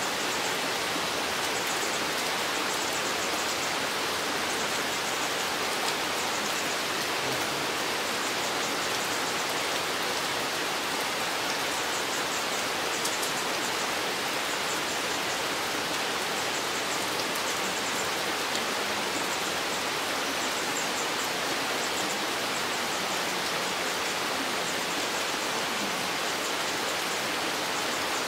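Steady rain falling in a forest: an even, unbroken hiss with a faint patter of drops.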